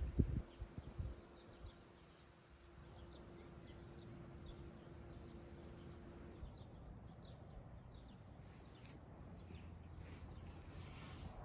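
Quiet rural outdoor ambience with faint, scattered bird chirps. A few low knocks come in the first second, and a faint steady hum runs until about six seconds in.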